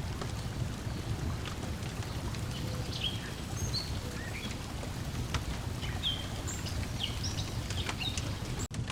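Layered outdoor ambience: a wood fire crackling with scattered small pops, and birds chirping in short calls from about three seconds in, over a steady low rumble of water and breeze. The sound cuts out for an instant near the end.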